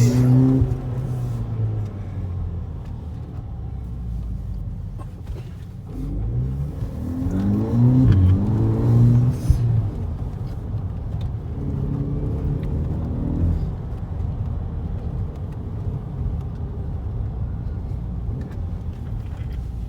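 Volkswagen Polo GTI's engine accelerating hard, heard from inside the cabin: the engine note climbs in several rising pulls, loudest about seven to nine seconds in, over a steady low rumble of engine and road.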